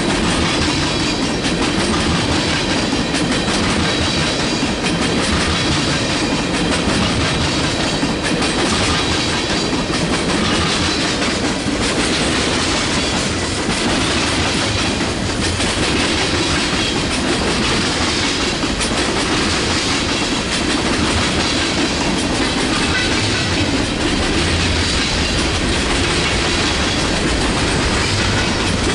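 Mixed freight train's cars rolling past steadily: a continuous rumble and rattle with repeated wheel clicks over rail joints.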